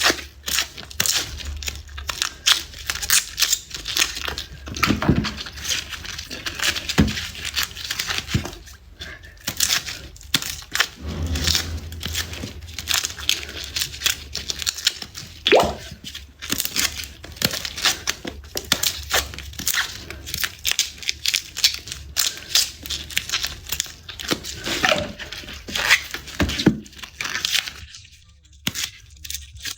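Garlic being peeled by hand: a busy run of crisp crackles and small snaps as the papery skins are torn and crumpled off the cloves, with a brief lull near the end.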